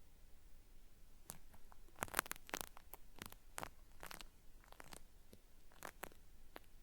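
Cotton swab scraping against a binaural microphone, simulating ear cleaning: irregular crackly scratches like something being peeled away, in small clusters with short gaps.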